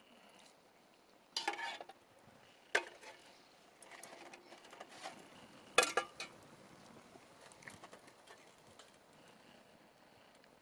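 Utensils clattering and scraping against a German-army-style metal mess tin, with three sharp clinks and quieter knocks between them, over a faint sizzle.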